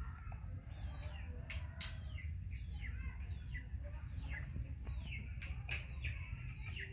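A small bird chirping over and over, short high notes that fall in pitch, about one or two a second, over a steady low rumble.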